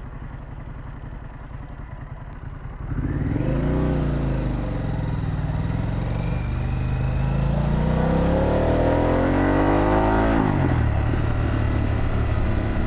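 2024 Harley-Davidson Pan America's Revolution Max 1250 V-twin through a Vance & Hines exhaust. It runs quietly for about three seconds, then accelerates hard with the revs climbing, dipping at a shift and climbing again. The revs drop sharply about ten seconds in and settle into steady cruising.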